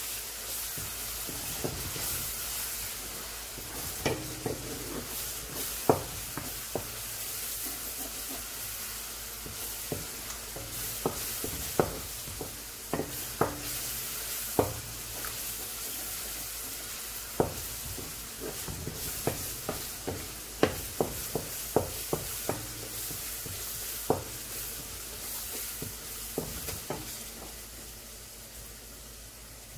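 Onions and garlic paste sizzling in oil in a large metal pot while a wooden spoon stirs them, knocking against the pot in many sharp, irregular clacks. Near the end the stirring stops and only a slightly quieter sizzle is left.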